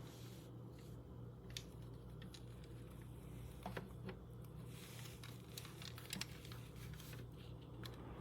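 Quiet room tone: a faint steady low hum with scattered small clicks and taps.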